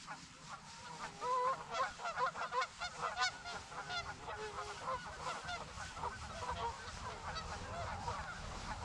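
A flock of geese honking harshly while fighting one another, with many overlapping calls in quick succession.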